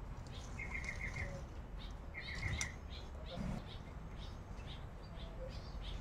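Small birds chirping, with a quick trill of about five notes heard twice, once about half a second in and again around two seconds in, over a steady low background rumble.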